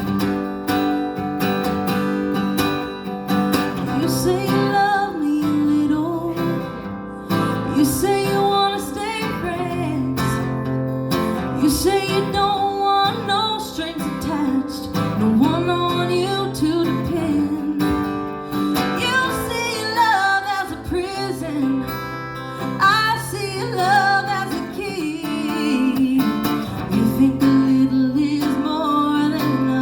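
A woman singing a song over a strummed acoustic guitar.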